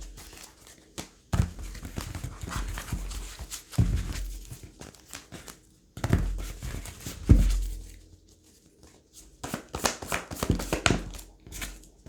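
Tarot cards being handled on a table: scattered light taps and a few soft thumps, then a quick run of card clicks near the end.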